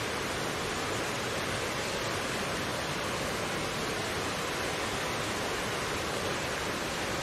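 Mountain stream water flowing over rocks in a steady, unbroken rush.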